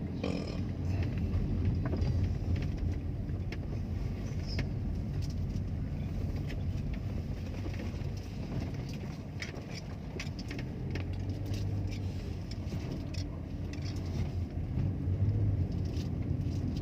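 A car on the move: a steady low rumble of engine and road noise, with scattered small clicks and knocks.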